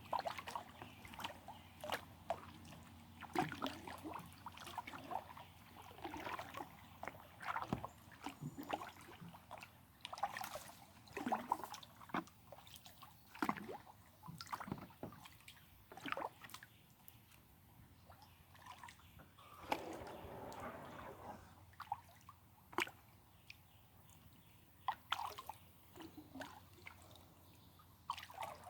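Water sloshing and dripping around a kayak: many small, irregular splashes and trickles from the paddle and against the hull.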